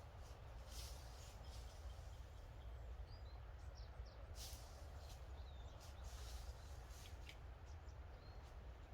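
Faint outdoor ambience: small birds giving short, scattered chirps over a steady low rumble.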